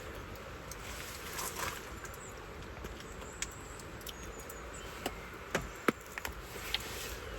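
Light autumn rain: a steady soft hiss with scattered single drops ticking and tapping, more of them in the second half.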